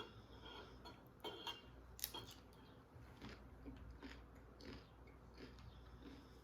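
Faint chewing and mouth sounds of someone eating, with scattered soft clicks and smacks about once a second.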